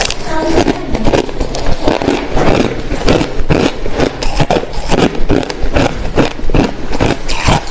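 A person chewing clear, hard crushed ice, crunching it in the mouth over and over at about two or three crunches a second.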